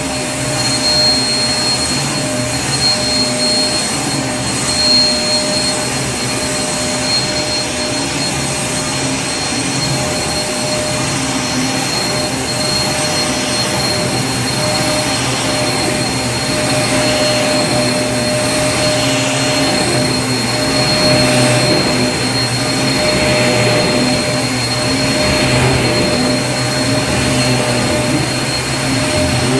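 Vacuum cleaner running steadily: a continuous motor whine with a steady rush of air, loud and unchanging.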